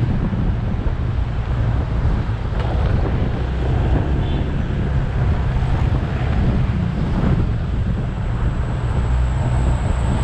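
Motorbike engine running steadily at riding speed, heard from the rider's seat, with wind rushing over the microphone and road noise.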